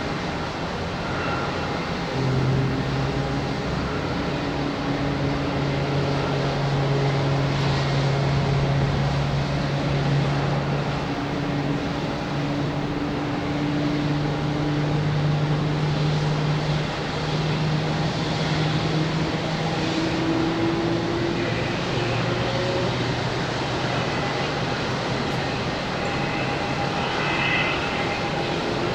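Jet engines of a Boeing 787 Dreamliner running on approach to land: a steady engine hum with low tones that drift slowly in pitch.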